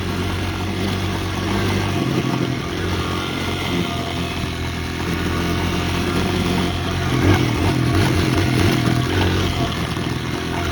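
Gas dirt bike engine running while being ridden, its pitch shifting about two seconds in and rising and falling with the throttle in the second half.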